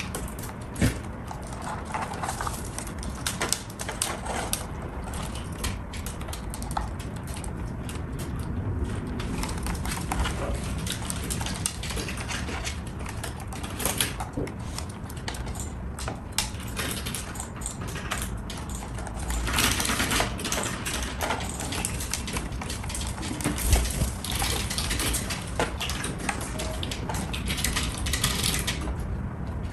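Kitchen food-prep clatter: utensils and dishes clicking and knocking at irregular intervals, with a few longer noisy stretches about a third and two thirds of the way through.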